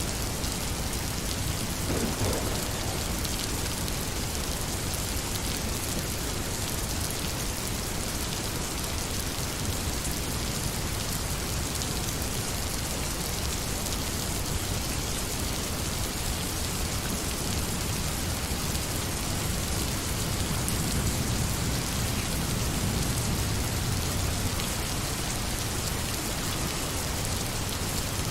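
Steady rain falling, an even hiss of many drops hitting surfaces, with a low rumble swelling for a few seconds in the latter part.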